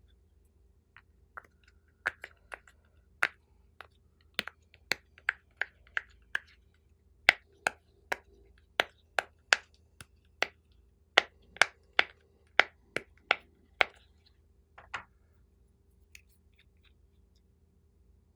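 Slime being pressed and poked by hand, giving a string of sharp, sticky clicks and pops, roughly two a second, which stop a few seconds before the end.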